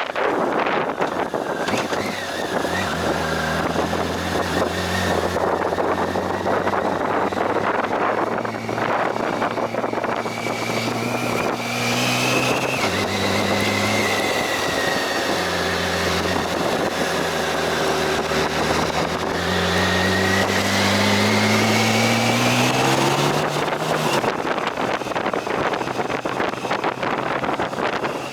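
Vehicle engine running while driving, its pitch rising and falling several times with a long climb that ends in a sudden drop near the end, under wind noise on the microphone.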